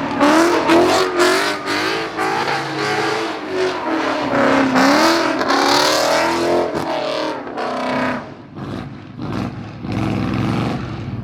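Car engine revving hard, its pitch rising and falling over and over, easing off about eight seconds in.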